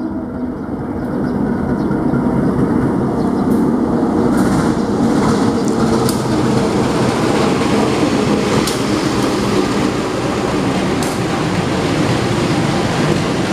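CC 201 diesel-electric locomotive (a GE U18C) running past at the head of a passenger train, its engine drone growing louder over the first couple of seconds and then holding steady. From about three and a half seconds in, the coaches roll by with sharp clicks of the wheels.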